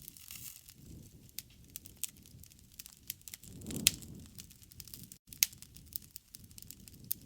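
Wood campfire crackling with frequent sharp pops over a low rumble of burning, the rumble swelling with a loud pop about four seconds in and another loud pop soon after. The sound briefly drops out just past five seconds.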